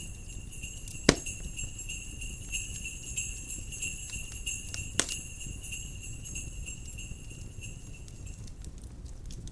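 Jingle bells ringing steadily over a crackling wood fire, with two sharp pops from the fire, about a second in and about five seconds in. The bells stop shortly before the end.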